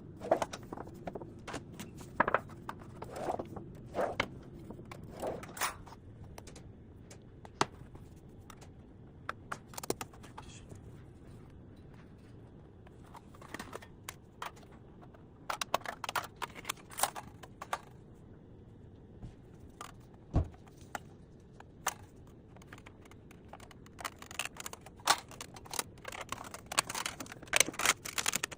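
Irregular clicks, knocks and scrapes of the metal parts of a camping fire pit being handled during repair, in clusters with a quieter stretch in the middle.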